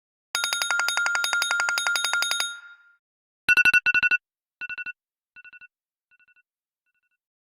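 Two stock iPhone ringtones. First comes a rapid, evenly pulsed ringing trill that lasts about two seconds and fades out. About a second later comes a quick pulsed beeping in short groups, each group fainter than the one before, so it echoes away to nothing.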